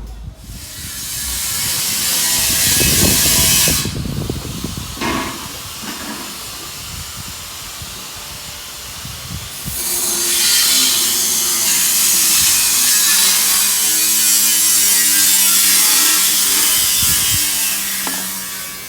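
A loud hiss of rushing air, in two long spells: a first of about three seconds and a second of about eight seconds that fades near the end, with a faint steady tone under it.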